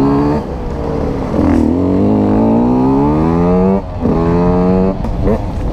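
Beta RR125 125 cc two-stroke single-cylinder enduro engine under way. It eases off briefly, then pulls in a long rising climb of revs for about two seconds, drops suddenly at a gear change, runs high, and ends with a few quick throttle blips.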